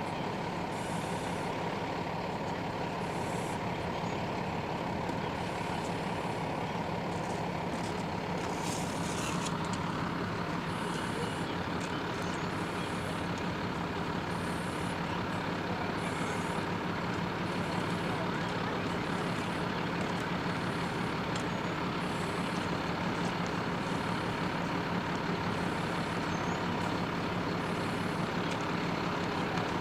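A heavy truck's engine idling steadily, with a faint high hiss repeating about every second and a half.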